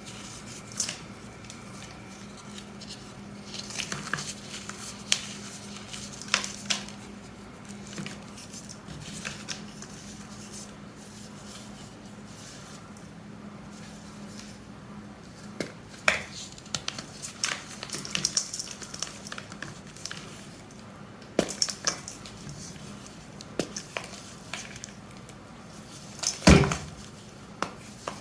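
Gym chalk blocks being crushed and crumbled by hand: scattered crunches with quiet stretches between them, and one louder crunch near the end.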